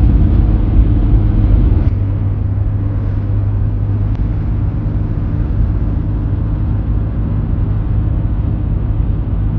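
Car cabin noise while driving: the steady low rumble of the engine and tyres on the road, with a constant low hum, a little louder for about the first two seconds.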